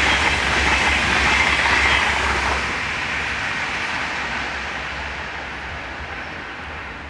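Double-deck IC2 intercity train, hauled by a class 146 electric locomotive, passing and moving away: its wheel and rail noise fades steadily, the high hiss dying out first.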